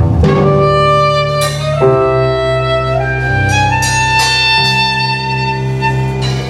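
Live baroque chamber music: bowed strings over a low bass line, playing slow held notes that change every second or so. The last note is held long as the piece closes.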